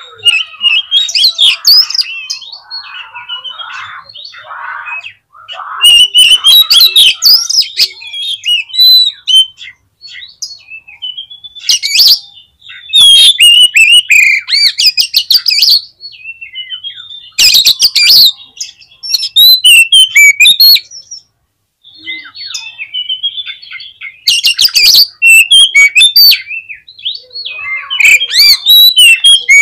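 Oriental magpie-robin (kacer) singing loudly: clear whistled phrases broken by several bursts of rapid, harsh chattering notes, with brief pauses between phrases.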